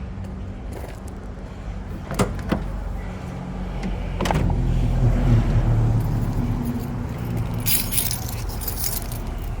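A steady low machine hum, growing louder in the middle, with a few sharp clicks around two and four seconds in and a bright metallic jingle, like keys, near the end.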